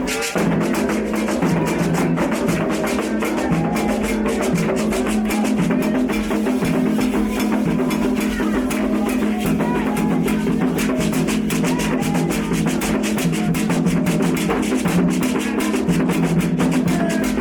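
Music with fast, dense drumming over a steady low held note.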